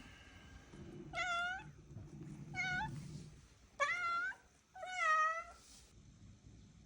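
Egyptian Mau cat meowing four times, short calls each about half a second long.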